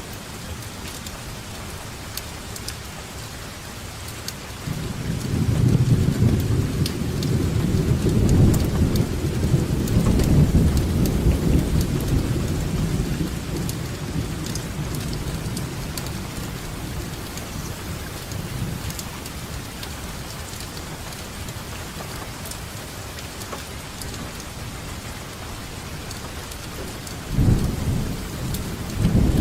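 Steady rain falling. A long roll of thunder begins about five seconds in, rumbles for around ten seconds and fades away, and a second rumble of thunder starts near the end.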